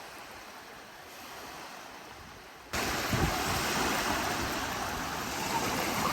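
Beach surf and wind, with wind buffeting the microphone, a steady rushing noise that jumps suddenly much louder a little under three seconds in.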